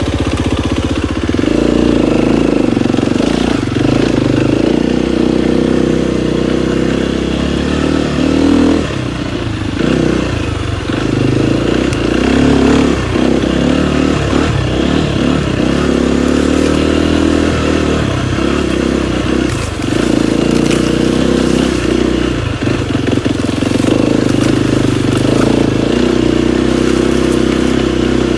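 KTM 250 XCF-W four-stroke single-cylinder dirt bike engine running under changing throttle, its revs rising and falling with brief dips, as it rides a trail.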